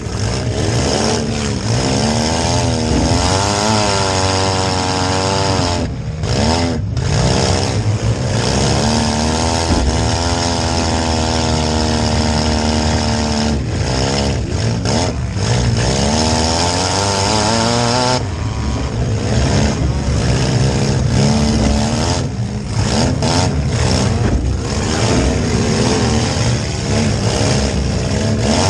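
Demolition derby car's engine revving up and down hard, heard from inside the car, with brief drops in throttle now and then.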